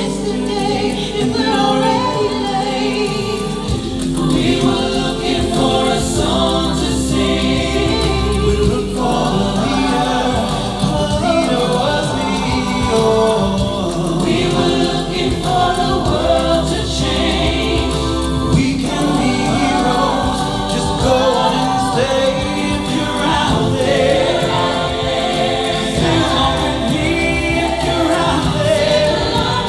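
Vocal group singing a song in close harmony, with long held low bass notes under the melody.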